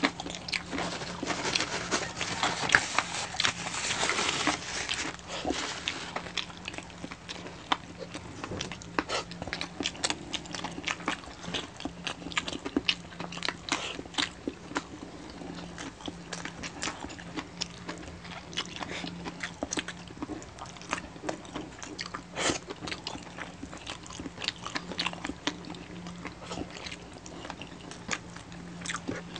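Close-up eating sounds of crispy pata (deep-fried pork knuckle) eaten by hand: crunching, chewing and mouth clicks, busiest in the first few seconds and sparser after. A faint steady low hum runs underneath.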